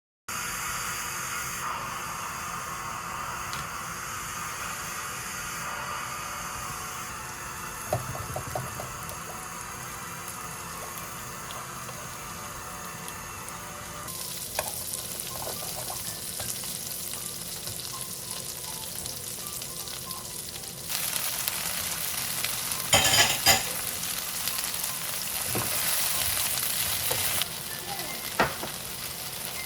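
Food frying and sizzling in a pan while being stirred, with a few sharp knocks of a utensil against the pan. The sizzle grows louder about two-thirds of the way through.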